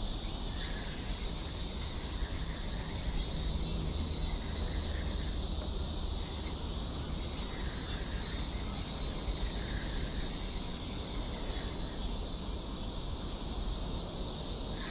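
Chorus of summer insects: a steady high chirring that swells and fades in repeated pulses, over a constant low rumble.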